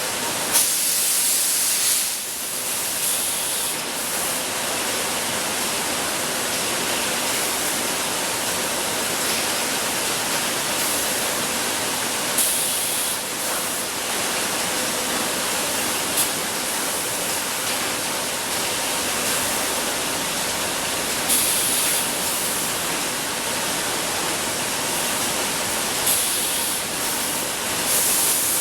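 Bottled-water production line machinery running with a steady mechanical din and a faint steady hum. Short bursts of hissing recur about ten times.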